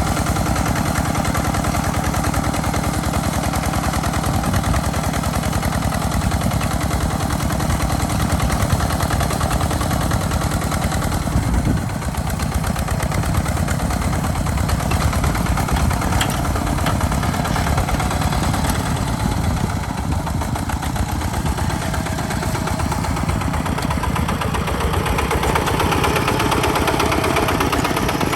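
Two-wheel hand tractor's engine running steadily throughout, its note shifting slightly about twelve seconds in and again near the end.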